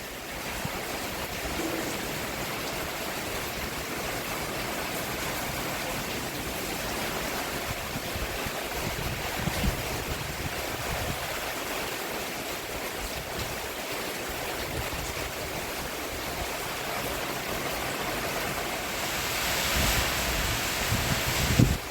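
Steady rain falling on a roof: a continuous even hiss with a few soft low thuds, swelling a little louder near the end.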